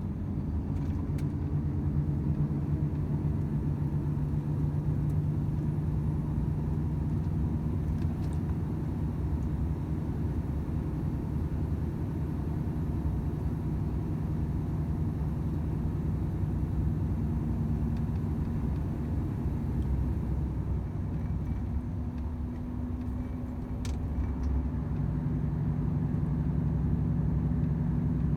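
Volvo FH 500 truck's 13-litre straight-six diesel droning steadily under way, with road noise. About twenty seconds in the engine note eases and shifts, then comes back steady and a little louder.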